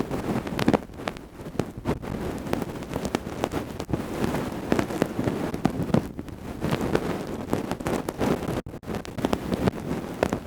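ASMR ear-cleaning sounds: tools scraping, rubbing and poking at a microphone's ear, giving a dense, continuous crackling and rustling with frequent sharp clicks.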